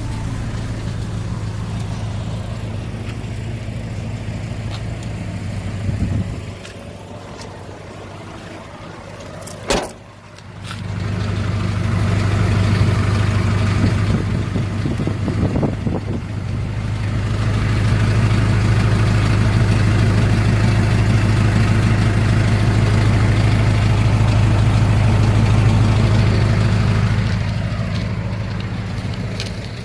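Hyundai Grace's 2.5-litre four-cylinder turbo diesel engine running steadily. The hum drops away for a few seconds, a sharp click comes near the middle, and then the engine runs again, louder and steady, easing off near the end.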